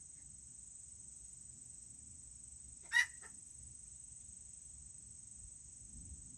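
A serama chicken gives one short, sharp call about three seconds in, over a faint steady high-pitched hiss.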